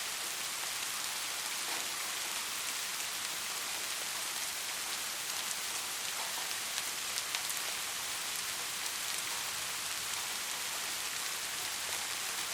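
Steady rain falling, an even hiss with scattered pattering of individual drops.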